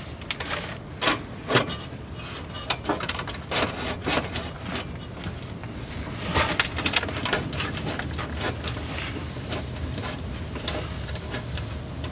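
Irregular clicks, taps and short scrapes of hand tools working exhaust couplers and clamps, over a steady low hum.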